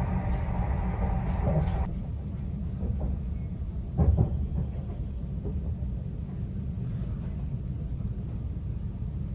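Greater Anglia Class 745 FLIRT electric train running, heard from inside the carriage as a steady low rumble. A higher hum stops abruptly about two seconds in, and there is a single thump about four seconds in.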